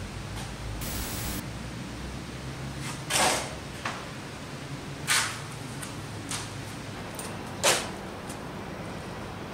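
A short burst of TV static about a second in, then three loud, short hissing bursts about two seconds apart, with a few faint clicks between them.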